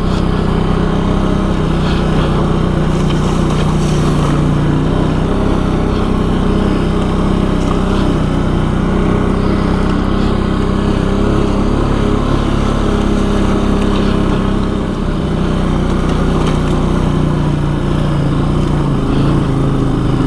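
ATV engine running steadily at low trail speed, with a few faint knocks along the way.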